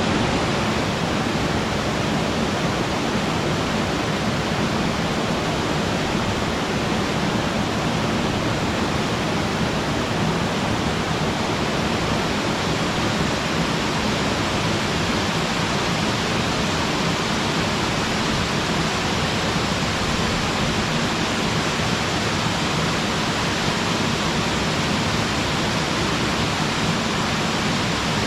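Waterfall: water falling and splashing in a steady, even rush, with no breaks or changes.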